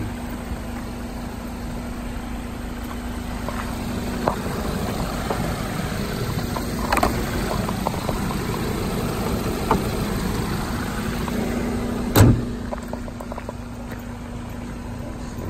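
Seat Ibiza Cupra's 1.4 TSI petrol engine idling with a light knock, which the owner thinks is the timing chain. About twelve seconds in, a single loud thump, the bonnet being slammed shut.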